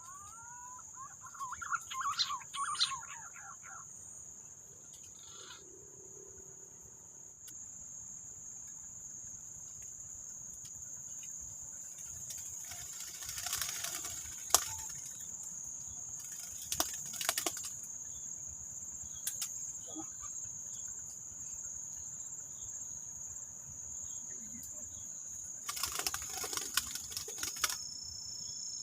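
A steady, high-pitched insect drone, typical of crickets, runs throughout. A short bird call sounds about two seconds in, and there are brief bursts of rustling several times around the middle and near the end.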